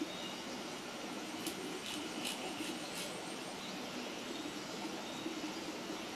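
Wood campfire burning with a steady hiss, and a few sharp crackles from the burning wood around the middle.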